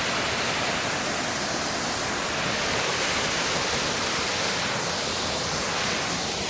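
Steady rush of fast-flowing river water, an even hiss that does not change.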